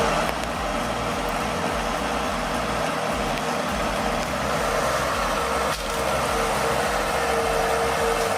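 Engine of heavy machinery running steadily, with a constant whine over the hum.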